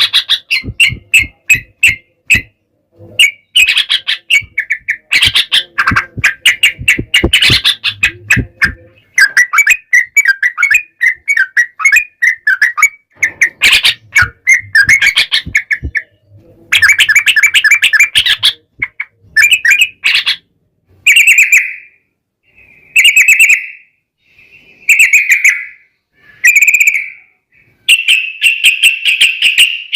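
Yellow-vented bulbuls (trucukan) calling in loud, rapid chattering runs, like birds squabbling, with sharp clicks through the first half. Past the middle the calls come as short bursts about every two seconds, then run together again near the end.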